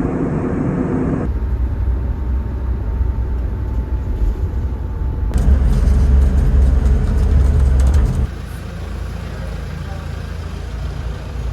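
Low rumble of a vehicle ride, in several short clips cut together, with changes about one, five and eight seconds in.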